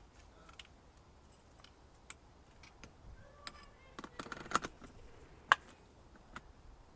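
Scattered clicks and clinks of metal strut parts and hand tools being handled, with a quick run of clicks about four seconds in and one sharp click about a second later.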